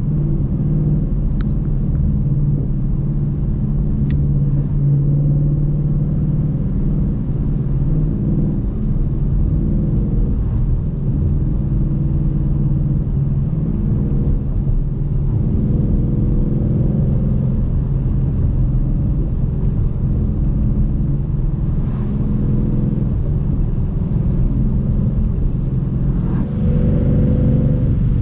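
Car engine and road noise while driving at a steady pace, a continuous low rumble whose engine note drifts slowly up and down. Near the end the engine note rises and gets a little louder.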